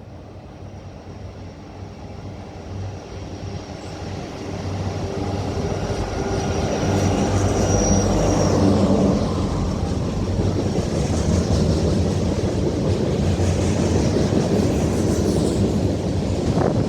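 Diesel-hauled train approaching and passing on the line, its low locomotive engine drone growing steadily louder over the first several seconds and then staying loud as it goes by. A thin high whine sounds over the first half.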